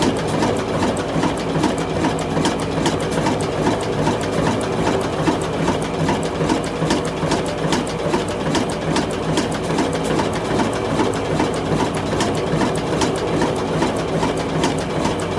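Old diesel engine running steadily, with a regular mechanical clatter of about three beats a second.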